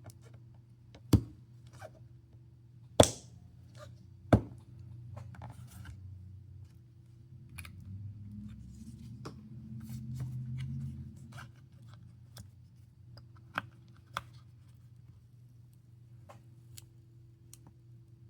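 Hand tools clicking and scraping on a Samsung Galaxy S21 as its glued-in battery is pried out. Three sharp clicks come in the first few seconds, then lighter scattered clicks and scraping, with a low rumble about halfway through.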